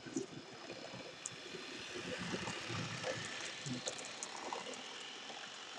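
Model train locomotive running along the track, its motor and gearing making a steady whirring noise with scattered light clicks. The mechanism is starting to smooth out as it breaks in after years unrun.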